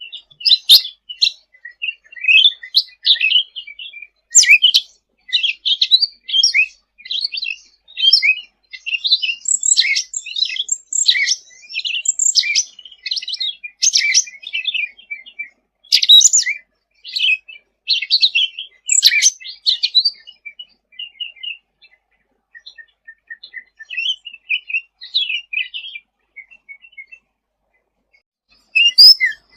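Cucak ranting songbird in full, energetic song (gacor): rapid, high-pitched chattering chirps and trilled phrases with hardly a pause. It turns sparser and quieter about two-thirds of the way in, then picks up again at the end.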